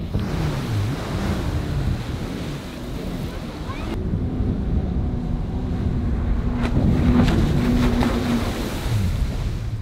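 Jet ski running on open water, with spray and wind buffeting the microphone. The engine's steady note comes through more plainly in the second half, where it grows louder.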